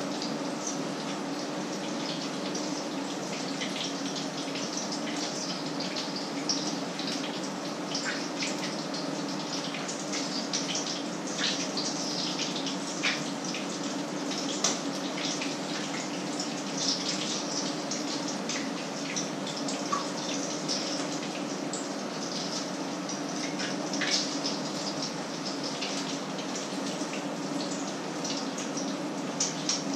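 Patties frying in two pans: a steady sizzle with frequent crackling pops, over a steady low hum.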